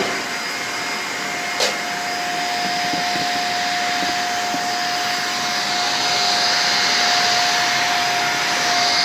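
Shark Lift-Away NV340 upright vacuum cleaner running steadily with a constant motor whine, with a single knock about one and a half seconds in.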